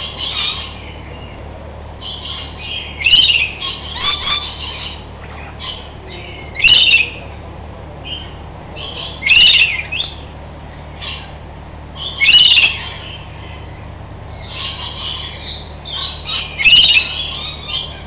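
Several birds calling in repeated loud bursts of high, sweeping notes about every one to two seconds, several of the notes curving downward in pitch.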